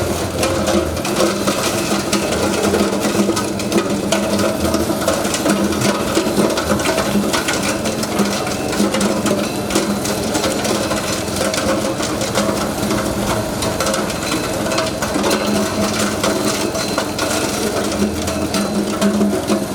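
Electric ice-cube crusher running and crushing ice: a steady motor hum under a dense, continuous crackle of clicks from the ice being broken.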